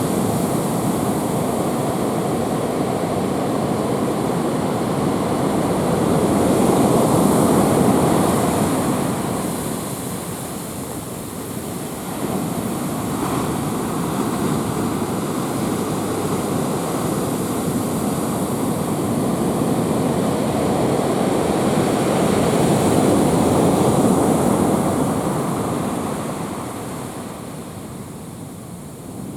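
Heavy ocean swell from an approaching typhoon breaking on the shore: a continuous rumbling wash of surf that swells louder twice, about eight seconds in and again near twenty-four seconds, as bigger sets of waves break, easing off between them.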